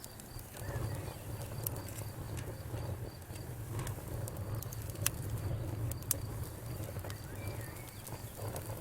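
Wood fire crackling: scattered sharp pops over a low, steady rumble, the loudest pops about five and six seconds in.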